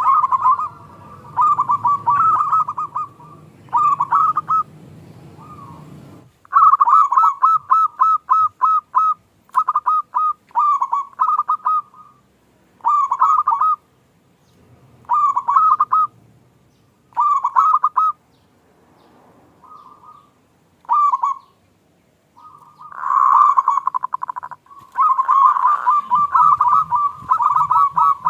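Zebra doves (perkutut) cooing: phrase after phrase of quick, rhythmic cooing notes with short gaps between, the phrases crowding together and overlapping near the end. A low rumble sits under the first few seconds.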